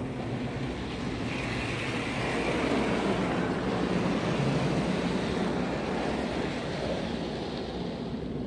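Automatic car wash running: a rushing noise of spray or air against the car that swells to a peak mid-way and then eases off.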